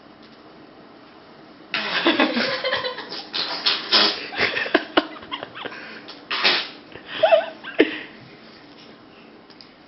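A raspberry blown with the lips, a sputtering fart-like sound made by mouth, coming in a string of spurts for about six seconds, starting about two seconds in. A short squeaky vocal note comes near the end.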